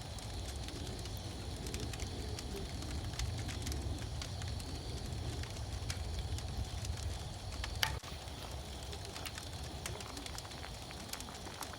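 Wood fire crackling in a fire pit, with scattered sharp pops, the loudest just before eight seconds in. A low rumble underneath cuts off abruptly at about the same point.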